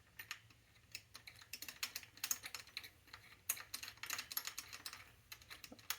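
Light, irregular clicks and taps in quick clusters from hand tools and bike parts being handled during the build.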